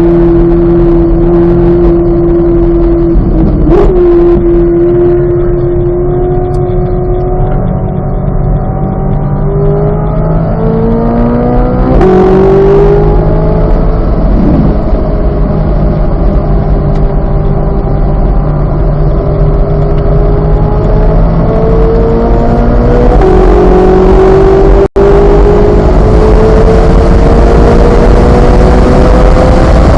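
2023 Chevrolet Corvette Z06's flat-plane-crank V8 driven hard on track: the engine note holds steady, climbs, sags, then climbs again as the throttle and gears change. A brief cut in the sound comes about 25 seconds in.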